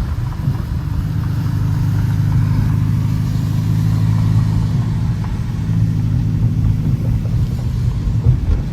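Dodge Challenger R/T's 5.7-litre HEMI V8 running steadily with a low drone.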